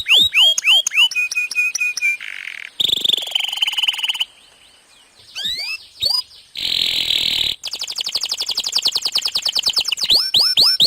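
Domestic canary singing a long, varied song. It opens with quick downward-sweeping whistles and a short trill, then a harsh buzzy passage and a held trilled note. After a brief pause about halfway comes another buzzy burst, then a fast run of rapidly repeated notes.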